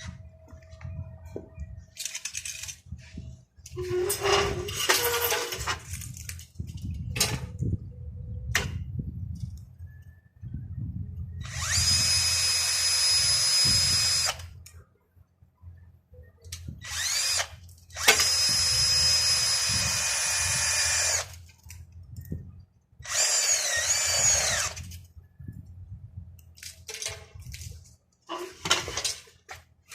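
Power drill running in three bursts of two to three seconds each, its whine rising as it spins up at the start of one and dipping under load in another. Short knocks and clatter of tool handling fall between the bursts.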